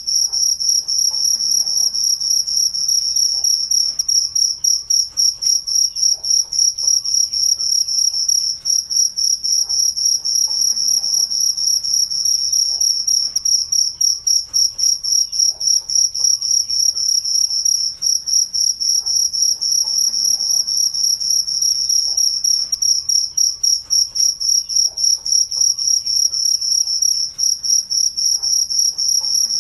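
Crickets chirping in a steady, rapid, high-pitched pulsing trill that never pauses.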